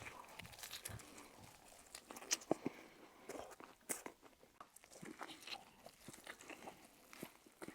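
Faint chewing and biting of a McChicken sandwich: scattered soft crunches and small mouth clicks.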